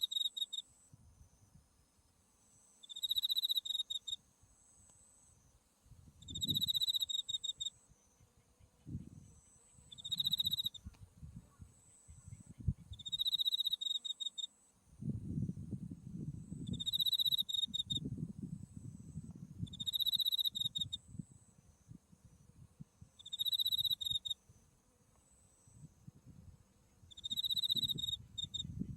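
A cricket singing: short, high, finely pulsed trills, each about half a second long, repeated about every three to four seconds. Low, gusty wind noise on the microphone comes and goes underneath.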